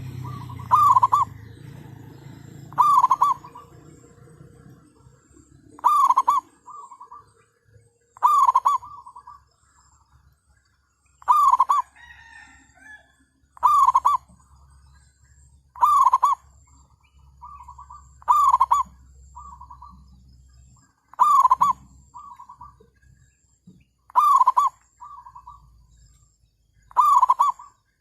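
Zebra dove (merbuk) cooing: a loud call, often followed by a shorter, softer note, repeated about every two and a half seconds.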